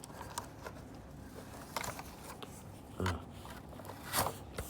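A few short scrapes and rustles as the Roomba Discovery 4210's brushes are handled, with a piece of rope tangled in them; the loudest comes about four seconds in.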